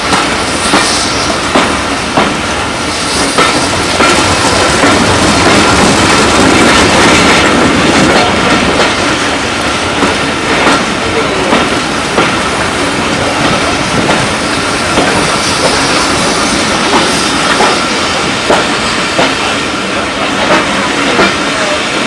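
Railway carriage wheels running over jointed track: a steady rushing run with a regular clickety-clack about once a second and a faint steady whine.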